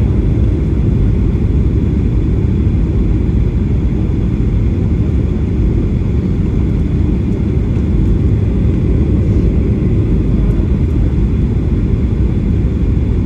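Steady low rumble inside a Boeing 737-800 cabin near the rear: engine and airflow noise heard from a window seat, with a faint high whine over it.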